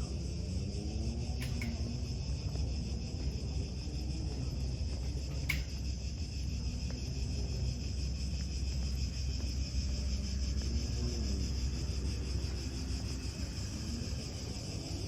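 A steady, high-pitched insect chorus over a low rumble, with faint distant voices and two short clicks in the first half.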